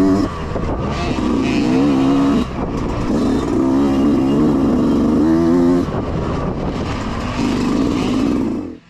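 Mini dirt bike engines revving up and down as the bikes race, pitch rising and falling with throttle and gear changes. The sound cuts off abruptly near the end.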